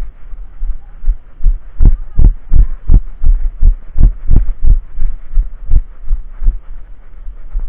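Running footfalls jolting a body-worn camera: a steady rhythm of low thuds, about three a second, louder in the middle stretch, over a low rumble of wind and handling on the microphone.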